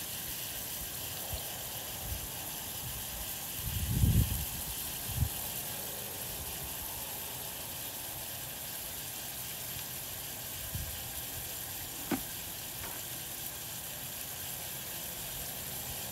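Chunks of chuck roast beef sizzling steadily as they fry with onions and chili paste in a large stainless steel pot. A few dull thumps break in, the loudest about four seconds in, with a sharp click about twelve seconds in.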